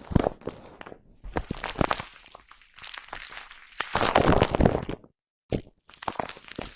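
Close-up brushing and scratching on a microphone's foam cover: irregular crackly scratching with many sharp clicks, densest and loudest about four seconds in, cutting to dead silence for a moment about five seconds in.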